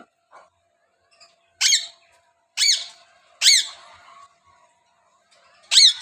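Alexandrine parakeet calling: four loud, short squawks, each rising then falling in pitch, spaced about a second apart with a longer gap before the last.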